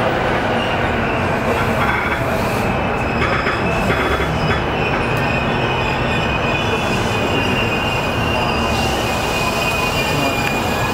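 Keihin-Tohoku Line E233-series electric commuter train running, heard from inside the carriage: steady wheel and rail noise, with a high wheel squeal that sets in partway through and grows stronger near the end.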